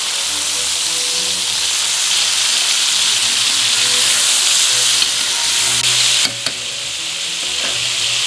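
Chicken thighs searing in hot oil in a skillet on high heat, sizzling steadily, with a brief dip in loudness about six seconds in.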